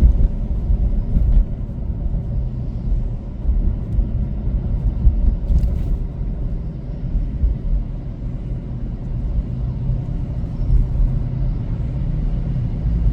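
Steady low rumble of a car's road and engine noise heard from inside the moving vehicle.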